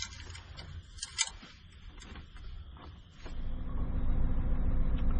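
A few scattered clicks and knocks, one sharper click about a second in. Then, about three seconds in, the 2016 GMC Yukon XL's 5.3 L V8 is heard idling as a steady low hum.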